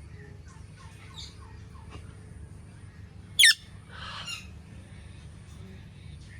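Indian ringneck parakeet giving one loud, short, high screech about halfway through, followed at once by a softer, noisier call, with faint chirps in the first couple of seconds.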